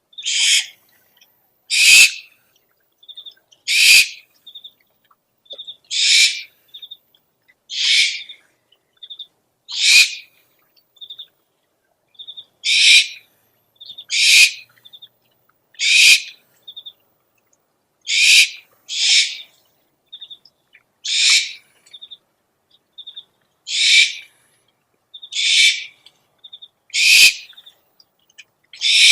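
Owl lure call recording: a harsh, hissing screech repeated about every one and a half to two seconds, with pairs of short, high piping notes between the screeches.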